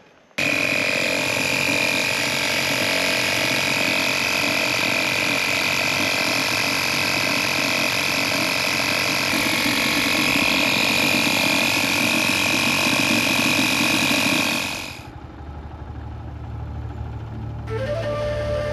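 A motor running steadily. It cuts in abruptly, runs evenly for about fifteen seconds, then fades out, leaving a quieter low hum.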